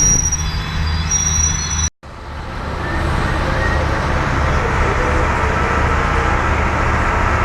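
Diesel locomotive of a passenger train running at the station with a steady low engine hum. The sound cuts out for a moment about two seconds in and comes back as a wider, steady rush of noise.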